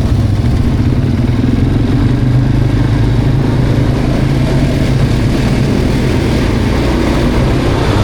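Quad bike (ATV) engine running steadily under way, a loud, even engine note with no breaks or big changes in pitch.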